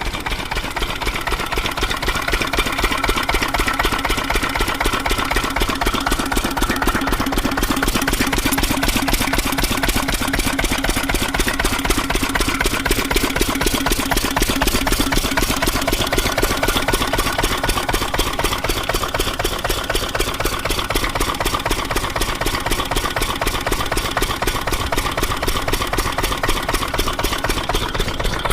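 8 hp Lister-type single-cylinder diesel engine running steadily, with a rapid, even beat from its firing strokes.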